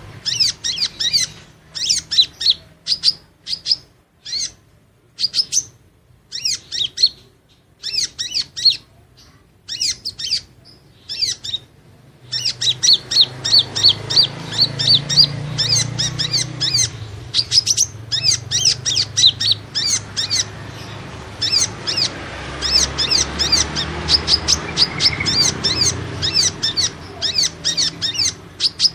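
Kolibri ninja lure call: bursts of short, high chirps repeated in rapid runs, with pauses between runs at first and an almost unbroken chatter from about the middle on. A low rumble sits under the second half.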